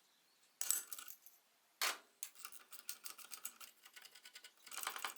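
Faint metallic clinks and rattles of hand tools and metal parts: two sharp clinks in the first two seconds, then a quick run of small clicks and rattles that grows busier near the end.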